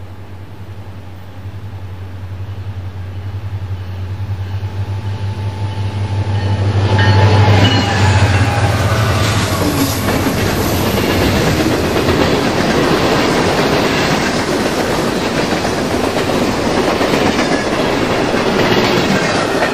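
Diesel locomotives approach and pass, their engine hum growing louder until about eight seconds in, after which a train's cars roll by with steady wheel clatter and rushing noise.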